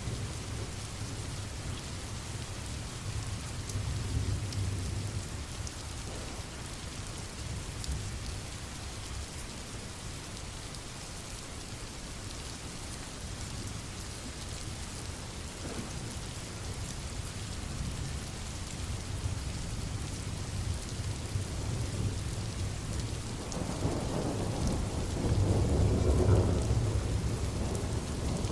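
Steady rain with low rolling thunder, the rumble swelling loudest near the end.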